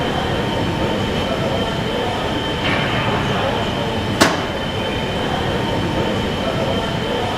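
Steady mechanical running noise with a high, even whine, and one sharp click about four seconds in.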